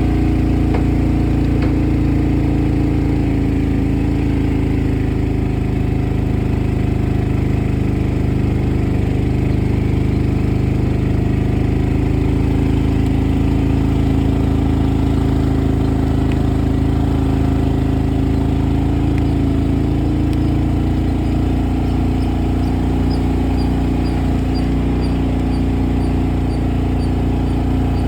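A vehicle engine running steadily, a low, unbroken drone.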